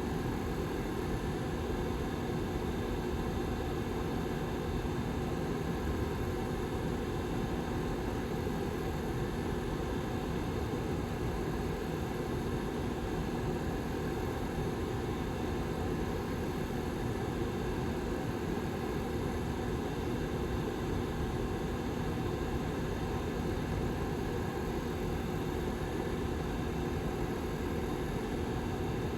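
Lasko 755320 ceramic tower heater's rear fan running steadily: an even rush of air with a faint, steady hum in it.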